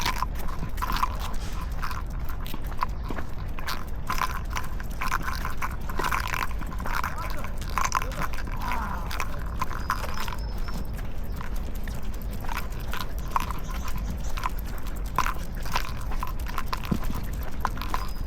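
Footsteps of a walker and two dogs on pavement: many irregular short clicks and taps, over a steady low rumble of street noise.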